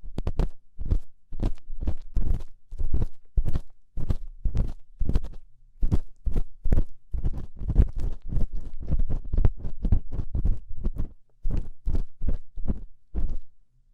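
Ear-cleaning ASMR: an ear pick scraping and scratching in a microphone's ear, close and loud, in quick irregular strokes about two a second.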